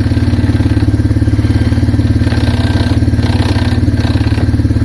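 Arctic Cat 366 ATV's single-cylinder four-stroke engine running steadily at idle with an even, rapid pulse.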